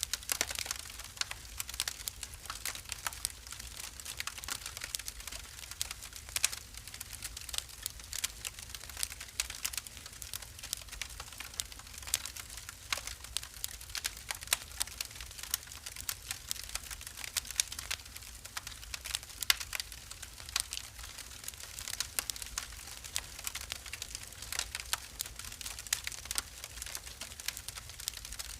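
Wood fire burning in a fireplace: dense, irregular crackling with frequent sharp snaps and pops.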